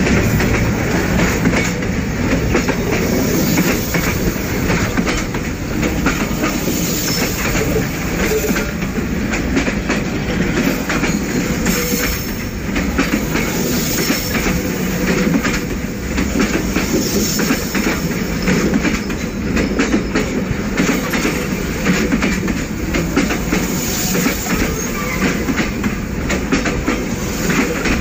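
Passenger train coaches rolling past close by: a steady rumble of steel wheels on rails, with frequent clicks and knocks as the wheels pass over the track.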